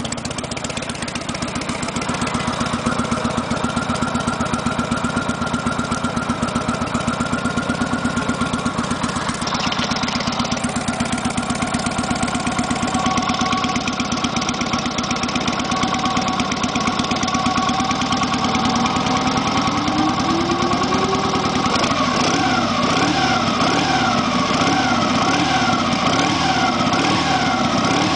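1974 Harley-Davidson FXE Super Glide's 1200 cc Shovelhead V-twin idling steadily with an even beat. Past the middle, a siren rises and then wails up and down behind it to the end.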